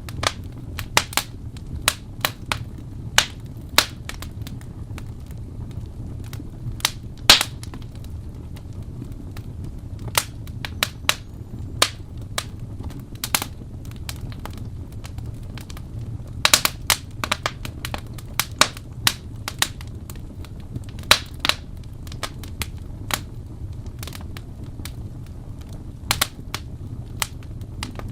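Wood fire crackling in a fireplace: a steady low rumble of flame with irregular sharp pops and snaps, some coming in quick clusters.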